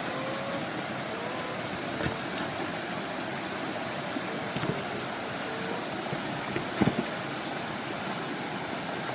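Steady rush of flowing stream water, with a few light knocks about two seconds in, midway and about seven seconds in.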